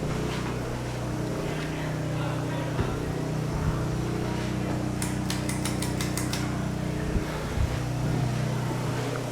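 Hunter ceiling fan running with a steady motor hum of several low tones. About five seconds in, a quick run of roughly ten sharp clicks.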